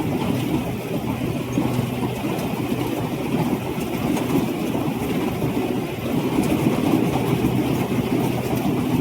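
Rice combine harvester's engine running steadily, a constant mechanical hum with a low drone.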